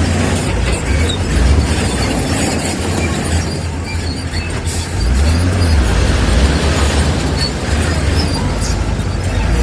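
Diesel engine of heavy earthmoving machinery running, a steady low rumble that grows louder about five seconds in, with the noise of the machine working over it.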